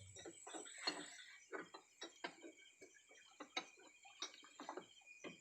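Scattered light clicks and taps at an irregular pace, about eight of them, over a faint steady high-pitched tone.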